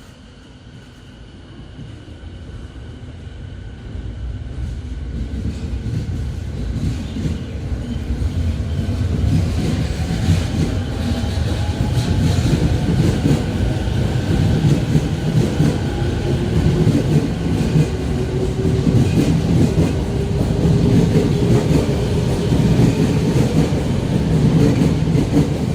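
Electric commuter train on the Sōbu Rapid Line pulling out of the station and accelerating past. Its motor whine slowly rises in pitch, and the running noise builds over about ten seconds, then stays loud.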